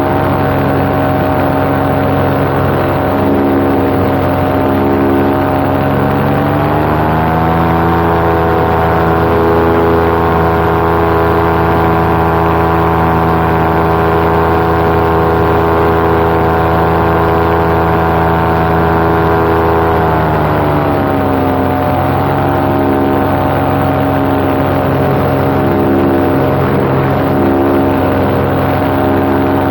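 Paramotor engine and propeller running steadily in flight. About six seconds in the engine speeds up to a higher steady pitch, holds it, and settles back to its earlier speed about twenty seconds in.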